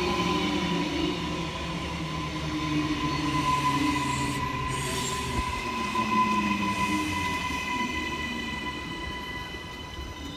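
Train running past with a steady high-pitched squeal from its wheels over the low rumble of the cars.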